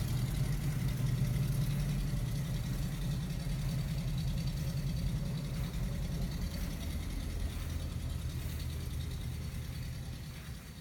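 1962 Studebaker truck engine running steadily, slowly fading over the last few seconds.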